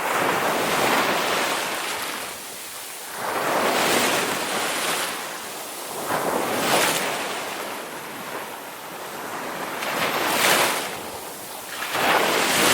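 Ocean surf: waves breaking and washing in one after another, about five swells that each build and fade every few seconds.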